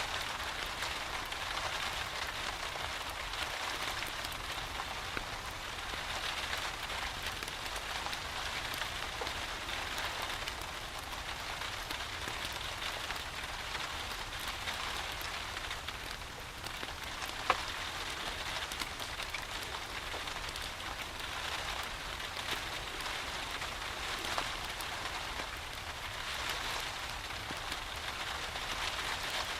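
Steady, even rain falling. A single sharp crack stands out a little past halfway through.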